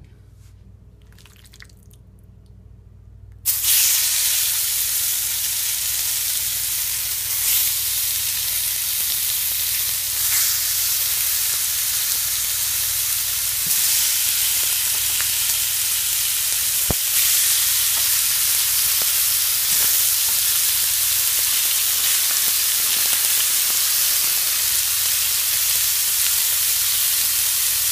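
Olive-oiled chicken breast pieces sizzling in a non-stick frying pan: the hiss starts suddenly about three and a half seconds in as the chicken goes into the pan, then runs on steadily with an occasional click.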